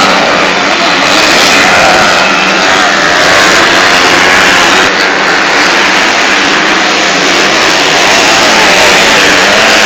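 Motocross motorcycle engines running loud and continuously, their pitch rising and falling as the riders rev.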